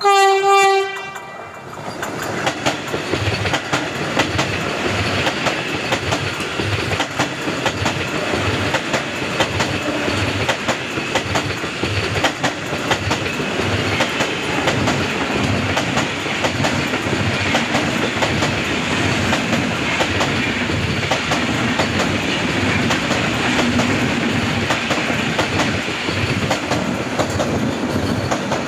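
Vande Bharat Express, an electric multiple-unit trainset, sounds one short steady horn note as it approaches. It then passes close at speed: a continuous loud rush of wheels on rail with rapid, regular clickety-clack of the wheels over rail joints.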